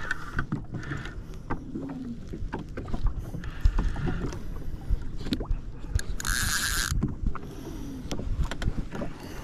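Water slapping and splashing around a jet ski's hull, with knocks and clicks of fishing gear being handled, and a short, loud hissing splash a little past the middle.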